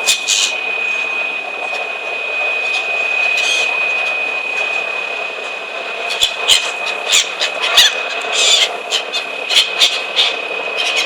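Steady mechanical drone with a constant high whine. A flurry of short, sharp clicks and snaps sets in about halfway through.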